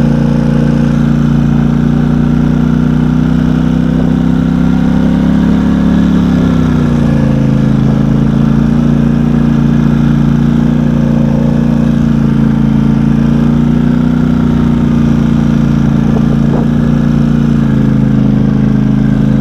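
Engine of a small off-road vehicle running steadily while driving through snow; its pitch drops about six seconds in as the throttle eases, then holds steady.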